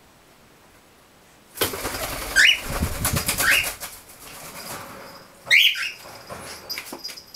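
Pet birds taking off in a sudden flurry of wing flapping about a second and a half in, with a few short rising bird calls among the flaps.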